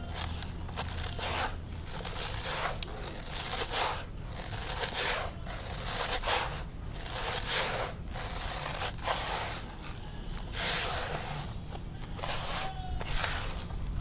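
Dry, dusty concrete crumbling and crunching apart, a run of gritty scraping strokes about two a second.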